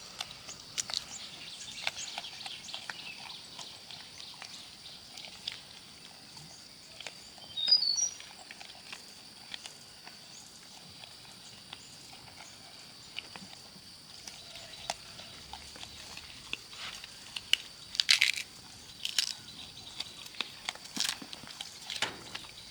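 A steady, high-pitched insect drone runs throughout, with a short bird chirp about a third of the way in. Scattered small crunching clicks come and go, with a few louder crunches a few seconds before the end.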